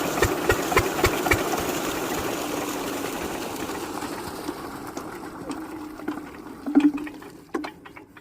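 Lister-type diesel engine on an irrigation water pump: its regular beats, about four a second, die out in the first second and a half. Water rushing from the pump then grows steadily fainter. A short loud knock comes near seven seconds in, followed by a few clicks.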